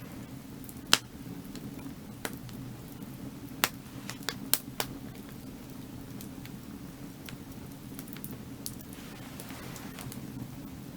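Firewood burning: sharp crackles and pops from the burning logs, the loudest snap about a second in and a quick cluster of pops between about three and a half and five seconds, over a steady low background.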